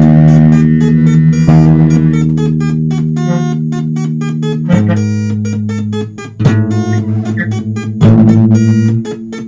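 Instrumental music: guitar and electric bass playing together, held low notes under plucked notes, the chord changing every second or two.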